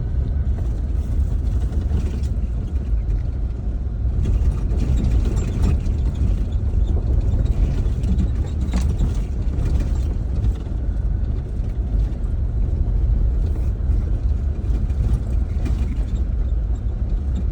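Car driving on a bumpy road: a steady low rumble of engine and road noise, with a few faint knocks and rattles from the bumps.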